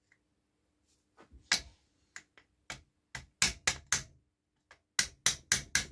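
Hammer tapping out a very tight wrist pin from the piston of a 1959 NSU Quickly moped engine: a series of sharp taps, a few spaced ones at first, then quicker runs of about four a second with a short pause in the middle.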